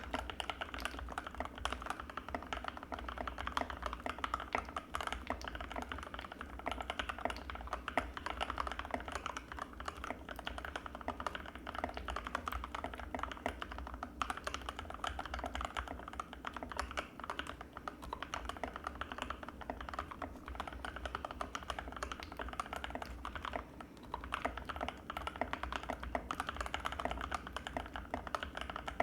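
Continuous typing on an Anne Pro 2 mechanical keyboard with Gateron Red linear switches: a dense, unbroken stream of keystroke clacks.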